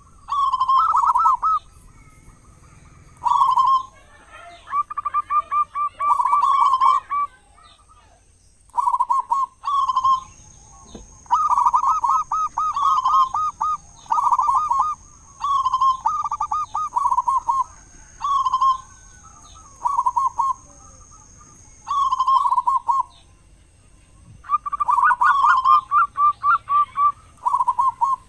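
Zebra dove (perkutut) cooing: repeated phrases of rapid purring coos, each about a second long, broken by short pauses. A thin steady high whine sounds faintly behind it.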